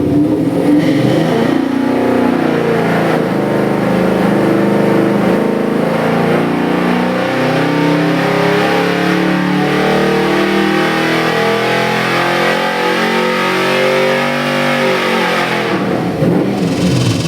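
Chrysler 318 Magnum small-block V8 crate engine, carbureted, running on an engine dyno test stand. Its revs climb in steps, then fall back about fifteen seconds in.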